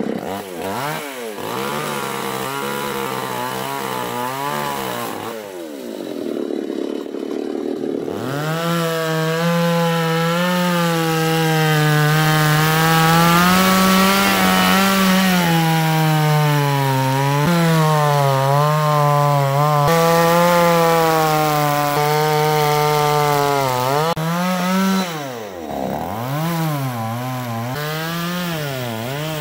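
Chainsaw revved in short blips, then held at full throttle from about eight seconds in, its pitch wavering as the chain cuts through coconut trunk. Near the end the revs drop sharply and it is blipped again.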